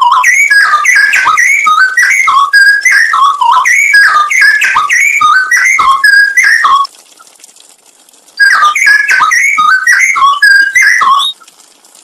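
Straw-headed bulbul (cucak rowo) singing loud, rapid runs of rich whistled phrases. The song breaks off about seven seconds in, resumes about a second and a half later, and stops again near the end.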